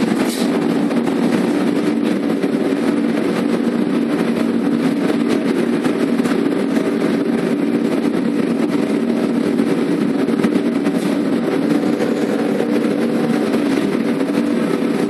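Electric arc furnace arcing: a loud, steady noise with a low buzzing hum that does not let up.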